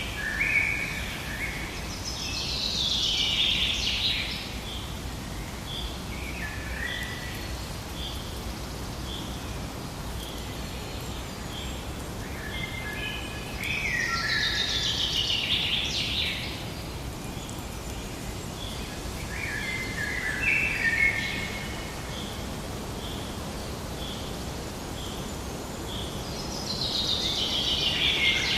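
Forest birdsong. A songbird sings a loud phrase that falls in pitch three times, roughly every twelve seconds, with shorter chirps between. A steady series of short, high, evenly spaced notes, a little more than one a second, runs over a low, even background noise.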